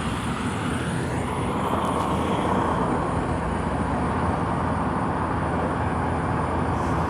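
Road traffic: a steady wash of car engine and tyre noise from passing vehicles, growing a little louder about two seconds in.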